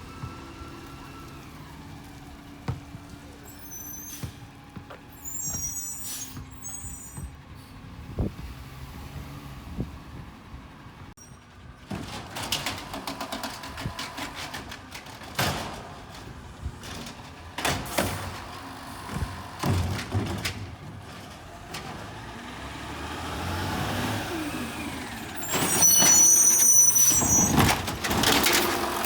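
Garbage truck at work: engine running, with clanks and knocks and several high squeals, the loudest squeal near the end.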